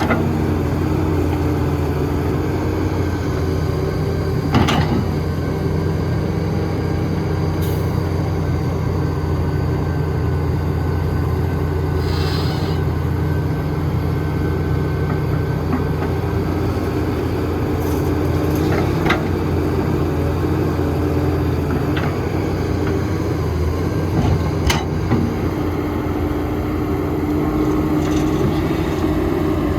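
Heavy diesel engine of construction machinery, most likely an excavator, running steadily. Several short, sharp knocks and clanks sound over the drone.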